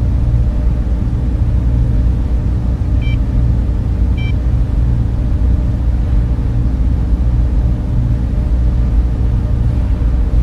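Steady, dense hum and whoosh of a server room's cooling fans, low and unchanging, with a faint steady tone in it. Two short, faint high blips sound about three and four seconds in.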